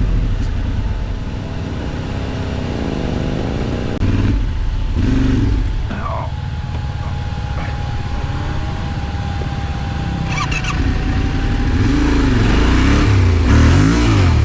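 Yamaha Ténéré 700's parallel-twin engine revving up and down repeatedly as the bike is ridden off-road, over a dense low rumble.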